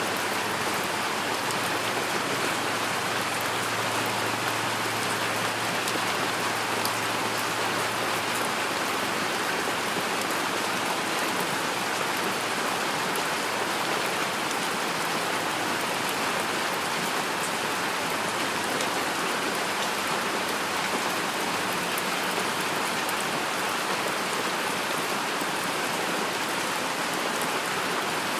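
Steady heavy rain falling on a surface, an even hiss with a patter of individual drops.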